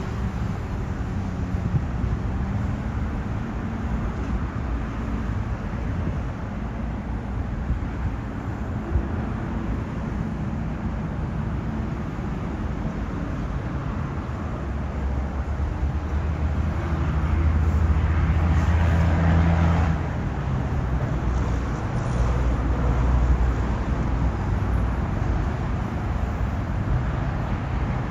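KTMB Class 26 diesel locomotive engine running with a low, steady rumble, growing louder about two-thirds of the way through and again shortly after.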